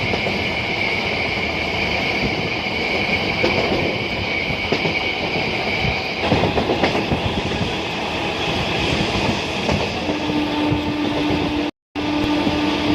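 Kolkata suburban electric train running along the track, a steady rumble of rail noise with some clatter. A high steady whine fades about six seconds in, a lower hum comes in near the end, and the sound breaks off for a moment just before the end.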